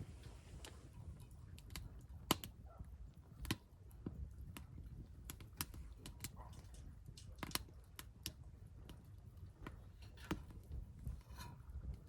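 Wood fire burning in a Solo Stove, crackling with irregular sharp pops and snaps, the loudest about two, three and a half and seven and a half seconds in, over a low steady rumble.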